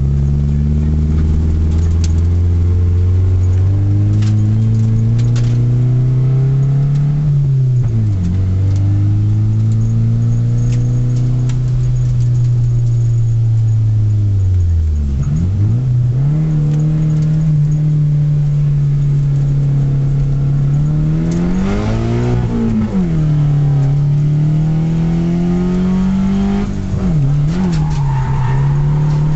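Car engine heard from inside the cabin, the revs rising and falling through the corners. The revs drop sharply and climb again several times, with a quick rev up and back down about 22 seconds in.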